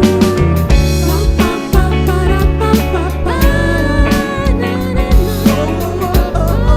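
Band music played live: drum kit beat, bass and guitar carrying a melody line, with no words sung.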